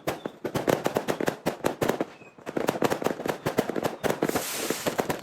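Fireworks going off at close range in a dense, rapid string of sharp bangs and cracks. The bangs break off briefly about two seconds in, then resume.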